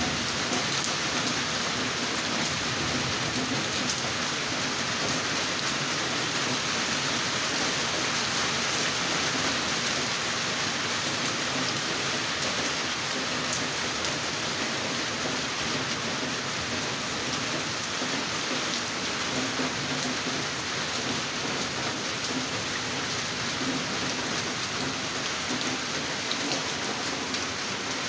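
Heavy rain falling steadily on trees and foliage: a dense, even hiss with a few faint drip ticks.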